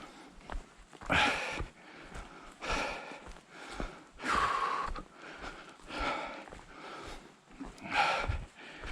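A hiker breathing hard on a climb: loud, noisy breaths about every one and a half seconds, one longer exhale near the middle, over footfalls on the trail.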